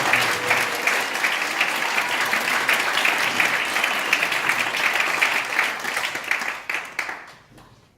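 Theatre audience applauding at the end of a song, the clapping thinning and fading out over the last second or two.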